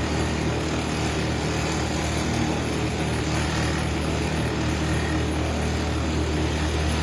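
Wood lathe running steadily with the workpiece spinning: a constant low motor hum under an even hiss.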